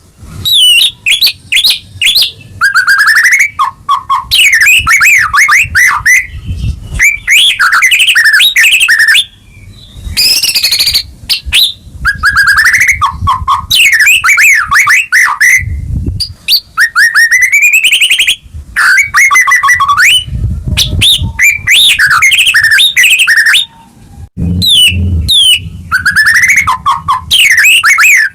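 White-rumped shama (murai batu) singing loudly in its full, vigorous 'gacor' song. It gives phrases of a second or few of fast repeated notes, whistled glides and trills, with short pauses between them.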